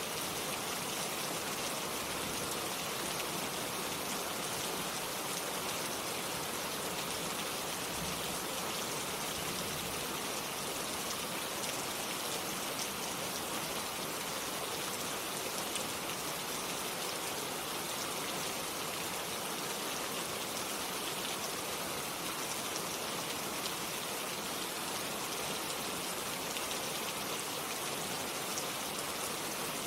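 Steady, even rain falling, a continuous hiss of many drops on a surface with no gusts or pauses.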